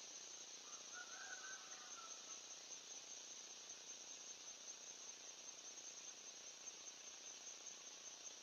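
Near silence: a faint, steady high-pitched hiss, with a brief faint wavering call about a second in.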